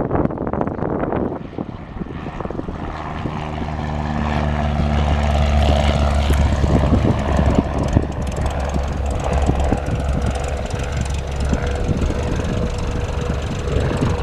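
Cessna 172R Skyhawk's four-cylinder piston engine and propeller at full power for takeoff, growing louder over the first few seconds and then holding steady. A low, steady buzz from the recording phone vibrating sits under it from about three seconds in until near the end.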